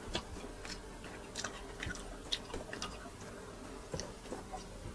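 Faint chewing and eating: scattered small clicks as grilled chicken is bitten and eaten by hand with rice.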